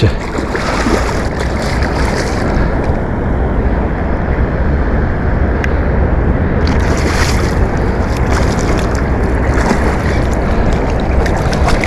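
Wind buffeting the microphone: a steady low rumble with hissing gusts that come and go.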